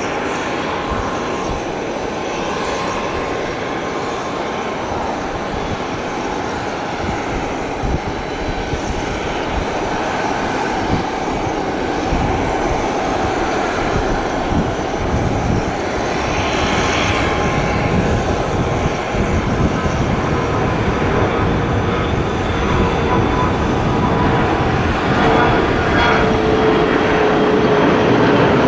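An airliner's engines run with a continuous rush and a steady whine, growing gradually louder toward the end as the plane comes closer. Wind buffets the microphone underneath.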